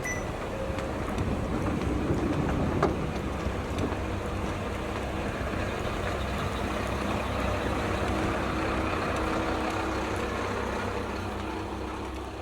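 Diesel railcar engine running as the train gets under way, a steady low rumble that begins to fade near the end, with one sharp click about three seconds in.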